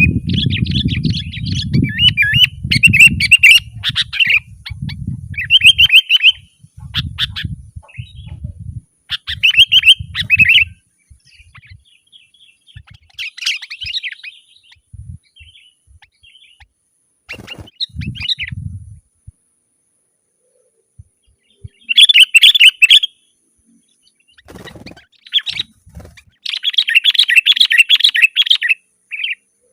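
Sooty-headed bulbul singing: bursts of rapid, bubbling chirps separated by short pauses, with the busiest, longest runs near the start and near the end. A low rumble sits under the first ten seconds or so.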